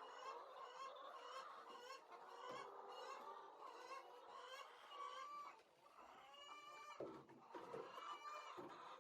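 Faint flock of chickens clucking and calling, many short calls overlapping, with a few longer drawn-out calls in the second half.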